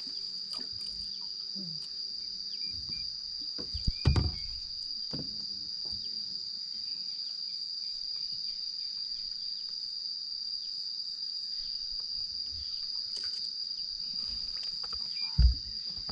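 Insects trilling steadily at one high pitch. Two dull thumps stand out, about four seconds in and again near the end.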